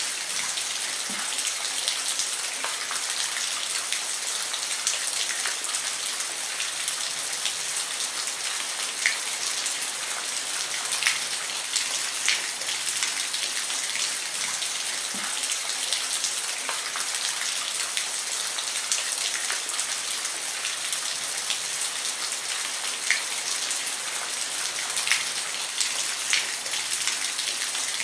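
Steady rain falling on a roof: an even hiss with scattered louder single drops ticking through it.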